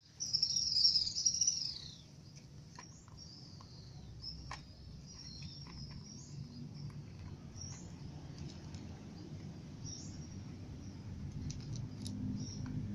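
Small birds chirping: a quick run of loud, high, falling chirps in the first two seconds, then scattered fainter chirps, over a low background rumble that grows louder near the end.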